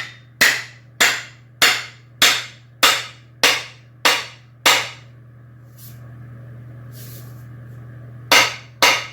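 Sharp wooden knocks seating an axe head onto its handle for the final fit: eight evenly spaced strikes a little over half a second apart, a pause, then two more near the end.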